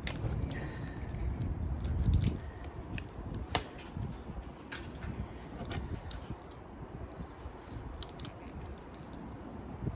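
Handling noise from pulling apart copper windings with hand tools: scattered light metallic clicks and snips, with a low rustling rumble in the first couple of seconds.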